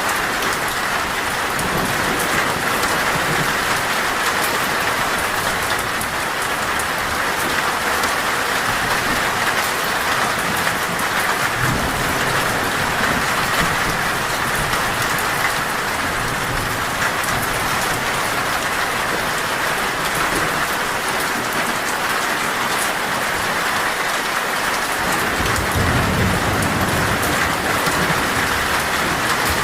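Heavy rain falling steadily on a metal roof, with low thunder rumbling about twelve seconds in and again near the end.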